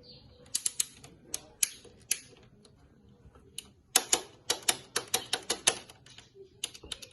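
Sharp clicks from hands fitting the dB killer's cable and switch onto the motorcycle: a few scattered clicks, then a quicker run of about five a second near the end.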